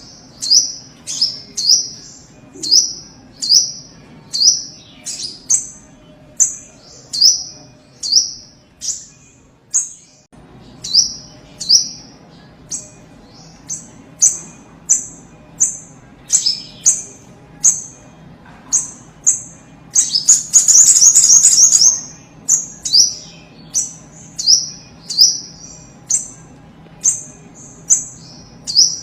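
A sogok ontong (spiderhunter) calls over and over in short, sharp, high notes that drop in pitch, about one or two a second. About twenty seconds in comes a fast run of rapid notes lasting about two seconds, the loudest part.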